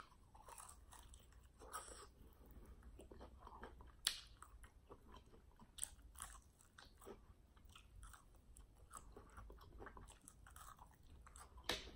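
Faint, irregular chewing and lip smacking from a person eating saucy fried chicken wings close to the microphone, with occasional small crunches and wet clicks, a slightly louder one about four seconds in.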